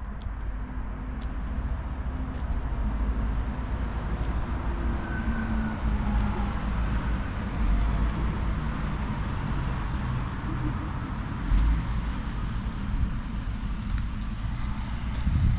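Toyota Hilux Arctic Truck driving: a steady low rumble of engine and tyres that grows a little louder over the first few seconds.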